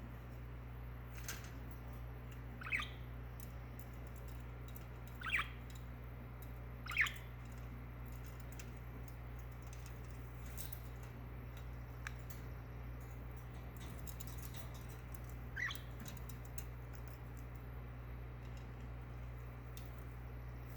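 Budgerigar giving four short, sharp chirps spread across the stretch, the last after a long pause, over a steady low hum.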